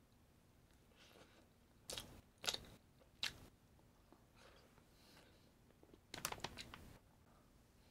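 A person eating close to the microphone, biting and chewing food with a few crisp crunches: three sharp bites between about two and three seconds in, then a quick cluster of crunchy chewing about six seconds in.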